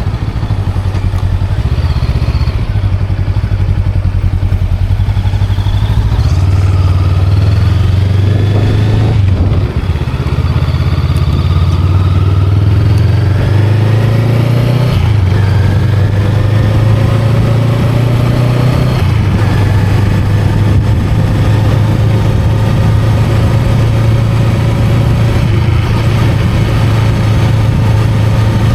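Honda Rebel 500's 471 cc parallel-twin engine running under way, its note climbing as the bike accelerates and dropping back sharply about 9, 15 and 19 seconds in, as at upshifts through the gears.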